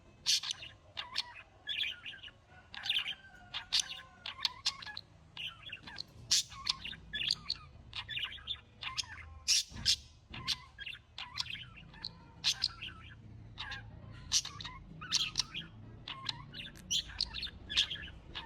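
Birds chirping busily, with many short, high chirps coming several times a second throughout, over a faint low hum. A single sharp knock is heard near the middle.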